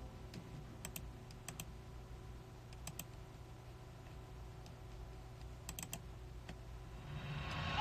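Faint, scattered clicks and taps over a low steady hum, with a rising hiss swelling in near the end.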